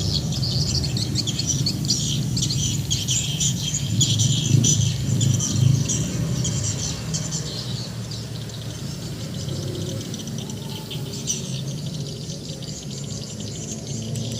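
Many small birds chirping busily over a steady low rumble; the chirping thins out about halfway through, then picks up a little near the end.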